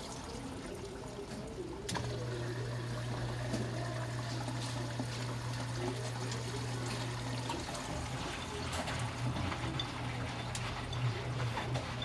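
Miele W 759 washing machine with water trickling and splashing through it, over a steady low hum that switches on with a click about two seconds in and turns uneven in the second half.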